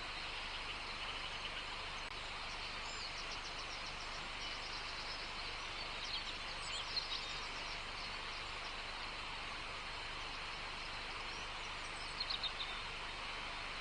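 Birds chirping in short quick series a few times, about three seconds in, around six to seven seconds, and near the end, over a steady outdoor hiss.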